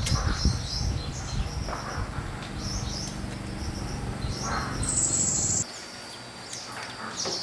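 A low, steady mechanical hum, such as a small engine or motor running, that cuts off abruptly about five and a half seconds in. Birds chirp throughout.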